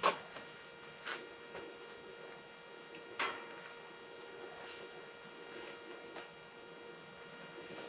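Faint steady hum with a few light clicks: one right at the start, one about a second in and one about three seconds in.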